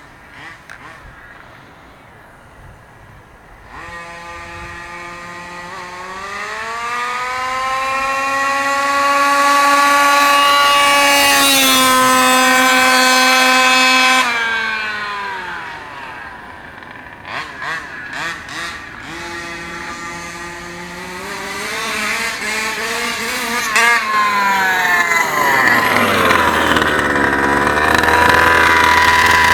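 36cc Rovan two-stroke engine of a Losi 5ive-T RC truck revving up from low speed about four seconds in, holding a high steady pitch for several seconds, then falling back. It rises again later, drops sharply, and runs loud and rough near the end.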